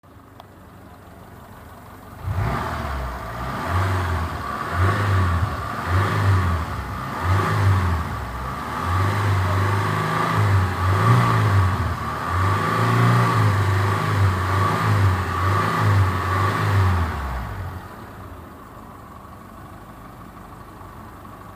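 Daihatsu Terios 1.3-litre engine idling, then revved repeatedly from about two seconds in, rising and falling for some fifteen seconds before settling back to a steady idle.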